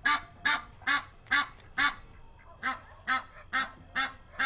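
Domestic geese honking in a steady series, about two short honks a second, with a brief pause near the middle.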